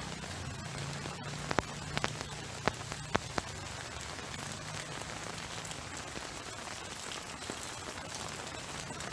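Heavy rain falling steadily, an even hiss, with a few sharp ticks of large drops landing close by about one and a half to three and a half seconds in.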